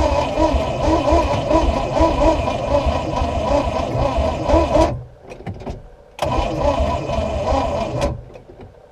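Small-block Chevy 350 inboard boat engine being cranked by its starter without catching: a long crank of about five seconds, a few clicks, then a shorter crank of about two seconds. It spins over slowly on a weak battery.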